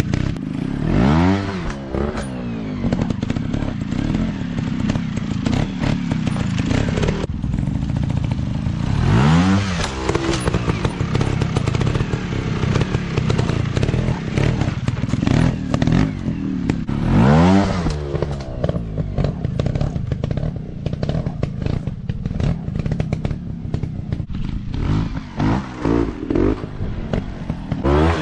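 Dirt bike engines running, revved hard in repeated bursts about every eight seconds and more often near the end, pitch rising and falling with each one. Knocks and clatter are heard between the revs.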